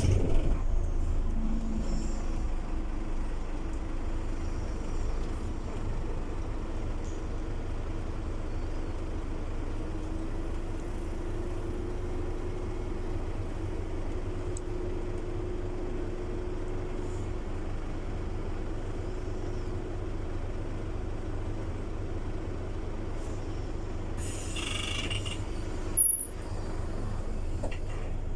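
Scania city bus running, a steady low engine drone with a held whine that rises slightly about a third of the way in. Near the end comes a short hiss of air, typical of the air brakes, followed by a sharp knock.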